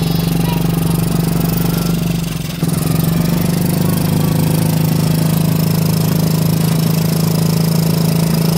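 Small engine of a light-up ride car running at a steady speed, heard from on board. The sound fades slightly about two seconds in and comes straight back about half a second later.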